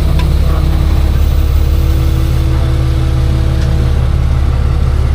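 Tow truck's engine idling steadily with a deep, even rumble.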